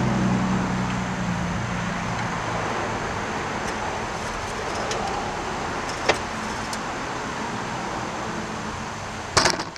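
Motor vehicle noise that hums low at first, then fades slowly into an even rush. There is a sharp click about six seconds in and a short louder noise near the end.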